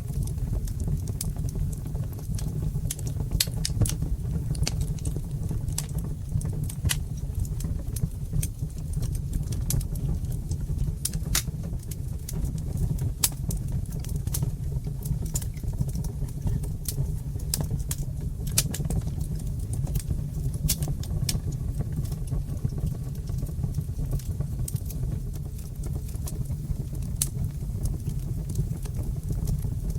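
Wood fire crackling in a brick fireplace: many sharp pops and snaps over a steady low rumble of the flames.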